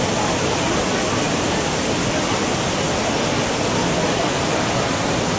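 Manavgat waterfall: river water pouring over the falls in a steady, loud rush.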